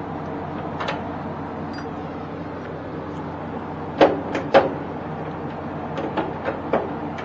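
A truck engine idling steadily, with a few sharp knocks and clanks over it; the two loudest come about four seconds in, half a second apart, and smaller ones follow near the end.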